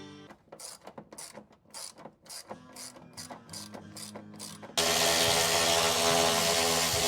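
Hand socket ratchet clicking in quick strokes, a few clicks a second, as bolts are worked on. About five seconds in, a sudden loud, steady rushing noise takes over.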